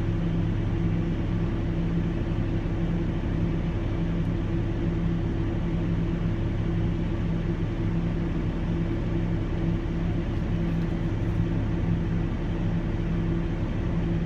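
Steady low drone of a running vehicle engine, an even hum that does not change for the whole stretch.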